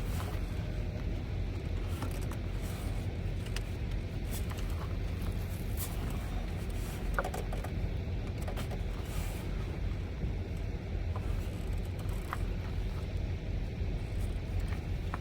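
A steady low mechanical hum, like an engine running or road traffic, with a few faint clicks and scrapes of hand tools working screws and a clamp.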